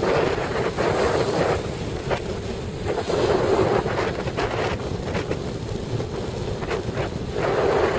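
Strong offshore wind buffeting the microphone, a heavy rumble that rises and falls in gusts, over the noise of breaking surf.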